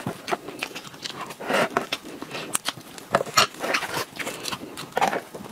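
Close-miked eating sounds: wet chewing and lip smacks from a mouthful of soft cream cake with taro paste, as irregular clicks and squelches. The crinkle of plastic gloves and a plastic tray being handled is mixed in.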